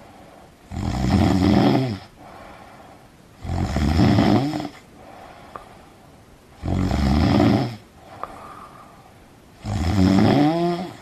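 A sleeping person snoring: four loud snores about three seconds apart, each lasting about a second, with quieter breaths between them.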